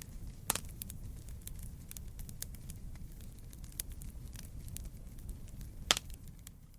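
Wood campfire crackling: a steady low rumble of burning with a dense scatter of small ticks. Two sharp, loud pops stand out, about half a second in and near the end.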